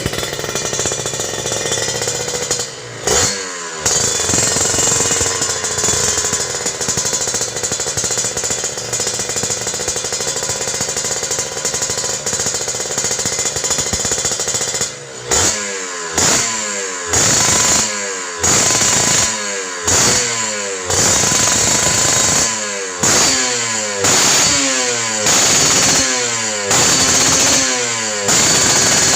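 Kawasaki Ninja motorcycle engine running through an aftermarket carbon exhaust, held at steady revs with one short blip about three seconds in. From about halfway on it is blipped repeatedly, about once every second and a bit, with the revs rising and falling each time to show off the exhaust note.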